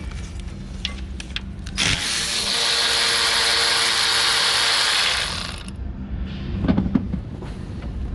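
A power tool runs steadily for about four seconds, starting and stopping abruptly, with small clicks and knocks of hand work around it.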